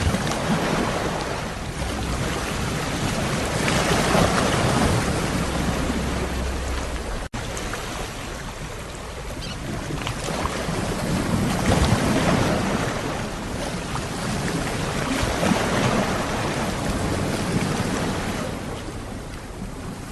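Sea waves washing onto a shore, the surf swelling and ebbing every few seconds. The sound cuts out for an instant about seven seconds in.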